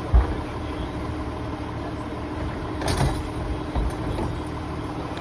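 Refuse collection truck's engine idling with a steady low rumble and hum. There is a low thud just after the start and a sharp crash about three seconds in.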